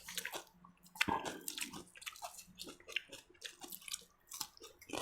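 Eating at the table: a scatter of small irregular clicks and wet smacks from chewing and food being handled, with a faint steady hum underneath.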